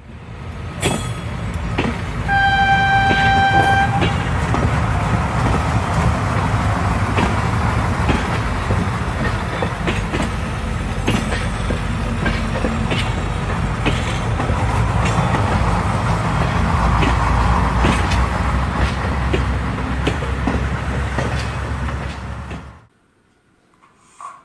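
Train horn sounding one steady note for about a second and a half, then a train running with a deep rumble and irregular clicks over the rail joints. The sound cuts off suddenly near the end.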